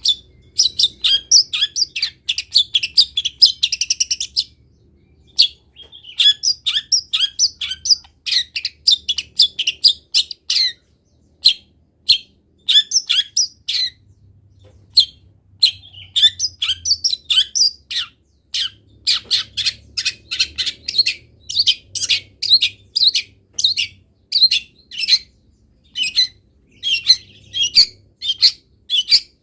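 Long-tailed shrike singing an energetic, rapid string of short chirps and whistles packed with imitations of wild-bird calls, in dense bursts separated by brief pauses.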